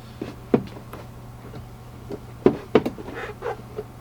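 Sharp knocks and clicks of parts being handled while the tow hitch wiring is lined up under the vehicle: one about half a second in, then three in quick succession near the middle.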